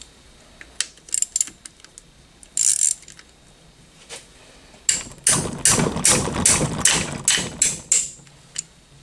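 Hand socket ratchet clicking on a stuck engine bolt as it is worked loose: a few scattered clicks at first, then a quick run of clicks and metal knocks, about three or four a second, from about five seconds in until near the end.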